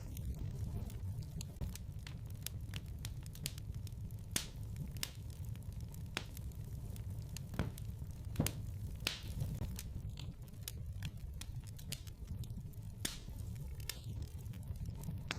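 Wood fire burning in a fireplace: a steady low rumble of flames with irregular crackles and sharp pops, a few louder pops in the middle.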